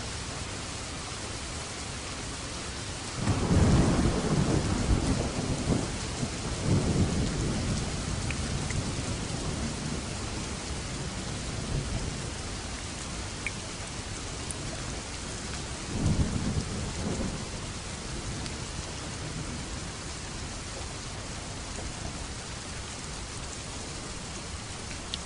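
Steady rain falling, with rolling thunder: a loud peal rises about three seconds in and rumbles on for several seconds, and a second, shorter rumble comes about two-thirds of the way through.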